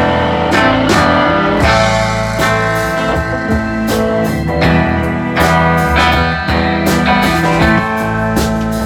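Live band playing the instrumental opening of a song just after a count-in, guitars over a steady beat.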